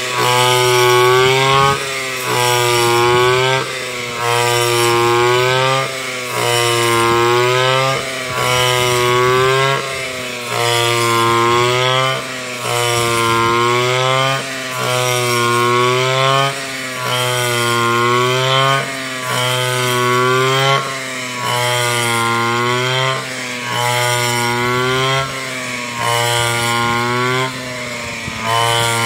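Backpack brush cutter's small petrol engine running hard while cutting rice, its pitch and loudness dipping briefly and then picking up again about every two seconds as the blade takes each cut.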